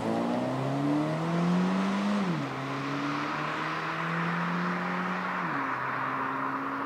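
Toyota 86's 2.0-litre flat-four engine and exhaust under acceleration: the engine note climbs, drops sharply at upshifts about two seconds and five and a half seconds in, then climbs slowly again and settles steady.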